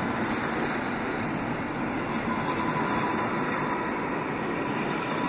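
Koleje Śląskie EN71AKS electric multiple unit pulling out and running past close by: a steady rumble of wheels and running gear on the rails, with a thin high whine.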